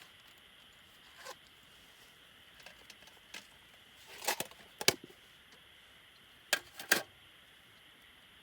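Wood campfire crackling: a handful of sharp pops over a faint steady hiss, the loudest coming in pairs about four and a half and seven seconds in.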